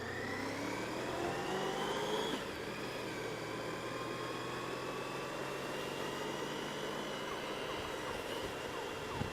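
Honda ST1300 motorcycle's V4 engine accelerating, its pitch rising for about two seconds, dropping sharply at a gear change, then running at a steady, slowly falling pitch while cruising, over steady wind and road noise.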